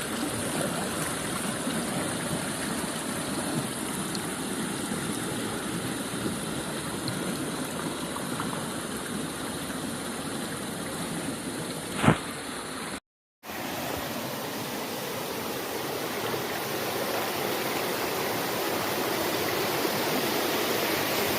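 A small cascading stream, water tumbling over rocks in a steady rush. About halfway through there is one sharp click, then the sound cuts out for half a second before the water resumes.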